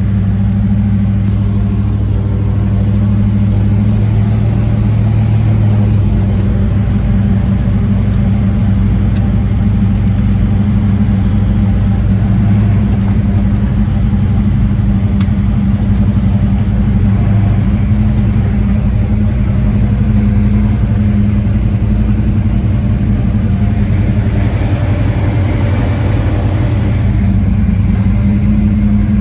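1968 Chevelle SS big-block V8 running steadily at a low idle while the car is backed up slowly, with a slight rise in engine sound for a few seconds near the end.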